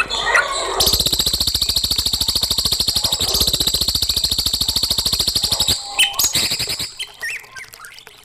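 Recorded birdsong: a few chirps, then one long, very fast, buzzing trill lasting about five seconds, then a few more chirps that die away near the end.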